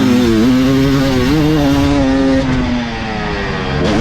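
Two-stroke dirt bike engine revving hard and held high on the throttle. About two and a half seconds in, the revs drop off, then rise sharply again near the end.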